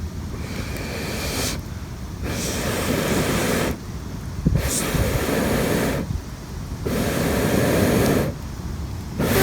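Breaths blown into a struggling campfire of damp wood: a series of long, rushing blows, each a second or two long with short pauses for breath between. A single sharp crackle comes about halfway through.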